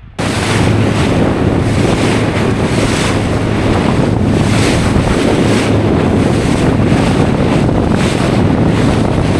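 Heavy wind buffeting the microphone over the steady hum of a small boat's outboard motor under way in rough water, with surges about once a second as the hull meets the waves.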